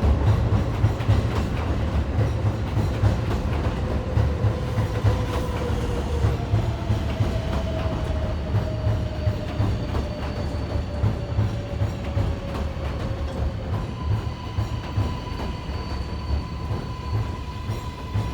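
Kawasaki R188 subway train running on the elevated track with a heavy low rumble and clickety-clack of wheels, a faint motor whine slowly falling in pitch as the train slows and the rumble fades. Near the end a steady high electrical tone sets in.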